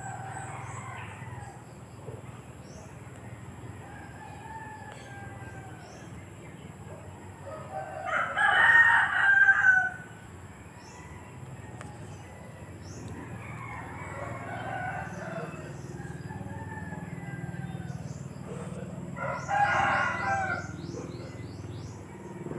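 A bird calling four times, each call a second or two long, the loudest about eight seconds in, over a low steady hum.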